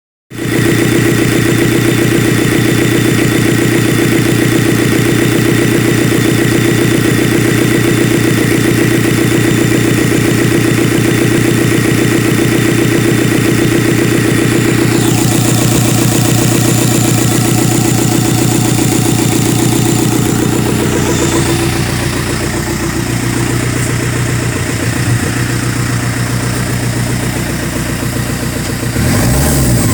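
Isuzu 4JX1 four-cylinder diesel engine running steadily at idle, loud and close. About halfway through a high hiss drops out, and after about 21 seconds the running turns lower and less even.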